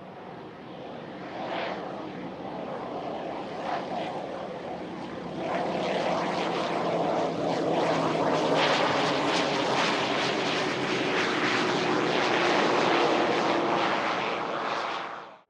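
Business jet's engines passing close on a runway, the roar building and becoming loud about five seconds in, with a faint high whine in the first seconds. The sound cuts off abruptly at the end.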